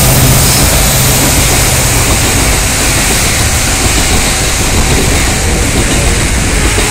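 Container wagons of a diesel-hauled freight train rolling past close by, a loud steady rumble and clatter of wheels on rails. The low drone of the twin WDG-4 diesel locomotives' engines fades out about two seconds in.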